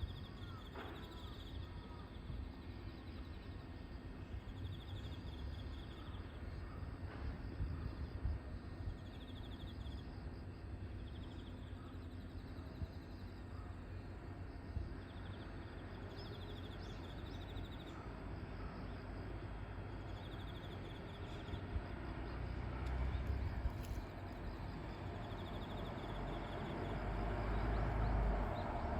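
Insects chirping in short repeated pulses over a steady low rumble. Over the last few seconds the rumble grows louder as a train starts to move off.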